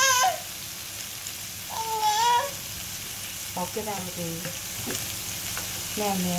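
Onion and spice-paste masala frying in oil in a pan, a steady sizzle.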